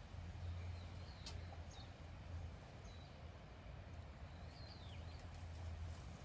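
A small bird chirping faintly, a few short calls scattered through, one a downward-sliding call about five seconds in, over a steady low hum.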